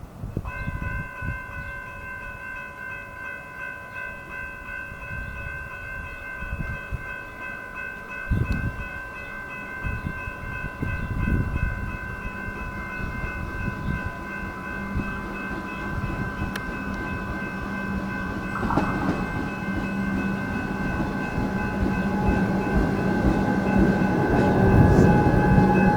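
Level crossing warning bell ringing steadily while an electric suburban train approaches, its running noise growing louder throughout, with an electric hum joining about halfway through.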